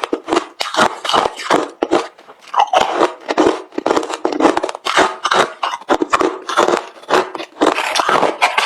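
Close-miked chewing of hard refrozen crushed ice: rapid loud crunches, a few bites a second.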